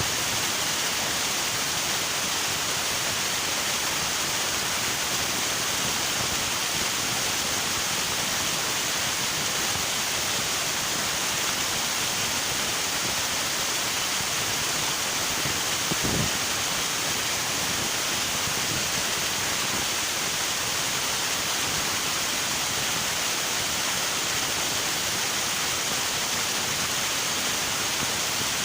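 River water rushing steadily, an unbroken hiss of flowing water. A single short low thump about sixteen seconds in.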